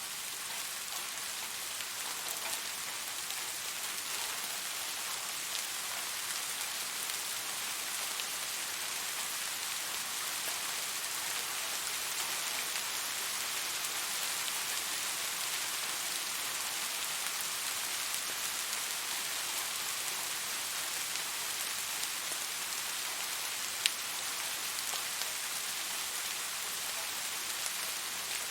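Steady rain falling, an even hiss of many drops with no thunder. One sharp click stands out about four seconds before the end.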